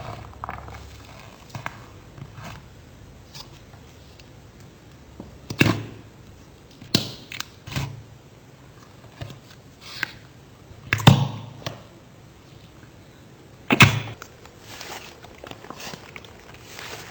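Slime being squeezed and pressed by hand, giving sticky pops and crackles at irregular intervals, with four louder pops among them.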